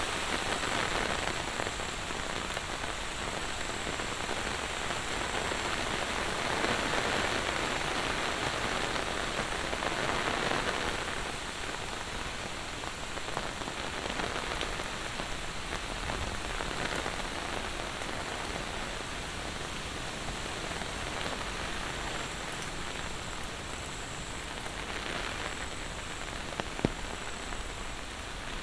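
Monsoon rain falling steadily, swelling louder a few times in the first half. A single sharp tap sounds near the end.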